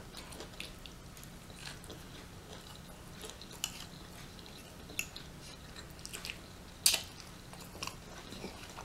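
A person chewing and biting food up close, with soft, scattered mouth clicks and one louder click about seven seconds in.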